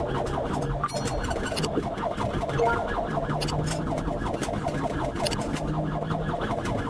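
Police car siren on a fast yelp, its rising sweeps repeating several times a second, over the pursuing cruiser's engine and road noise.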